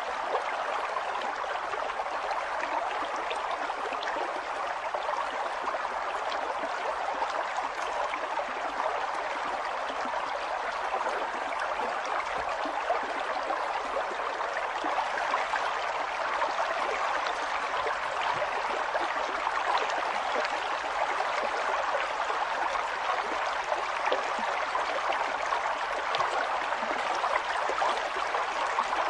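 River water flowing over rocks, a steady rushing and babbling with many small splashes.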